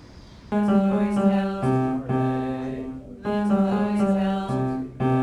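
Guitar strumming a run of chords, coming in loud about half a second in and changing chord every second or so.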